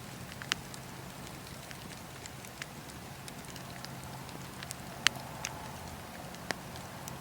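Wood fire burning in a fireplace: a steady low hiss with scattered sharp crackles and pops, the loudest pop about five seconds in.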